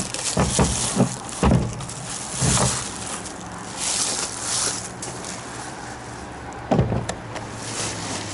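Hands handling a plastic portable satellite antenna and its packing: a few knocks and thumps, with rustling in the middle, over a steady low hum.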